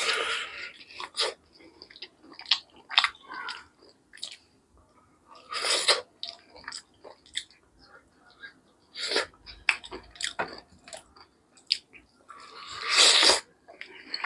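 Close-up sounds of a man biting into and chewing a curried chicken leg piece: irregular wet smacks and clicks of the mouth, broken by a few louder breathy hisses.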